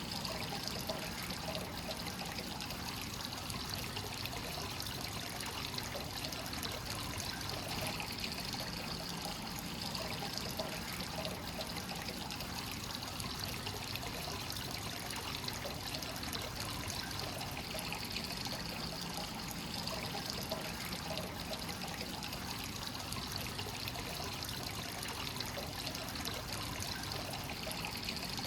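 Hot spring water from a free-flowing source spring pouring steadily into a bath, a continuous trickling and splashing with no break.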